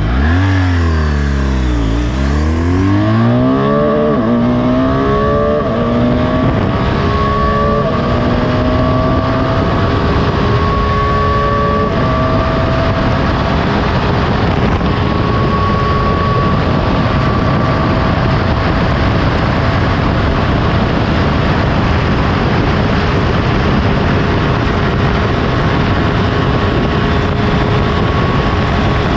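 BMW GS boxer-twin motorcycle engine at full throttle, accelerating hard from a standstill through the gears. Its pitch climbs and drops back at each upshift over the first dozen seconds, then rises slowly toward top speed under heavy wind rush.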